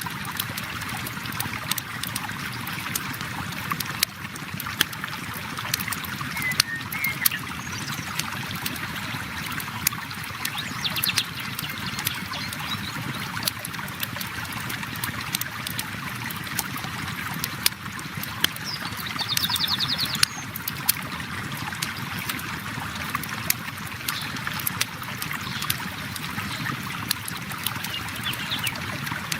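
Steady rushing of a flowing river, overlaid with the irregular pops and crackles of a wood campfire. Two brief high trills break through, one about a third of the way in and one past the middle.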